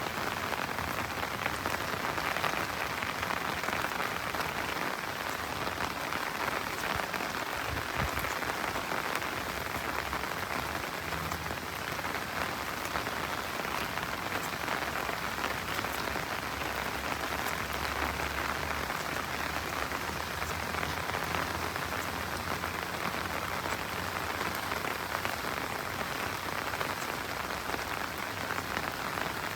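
Steady rain falling on the road and the trees around it, an even hiss of drops.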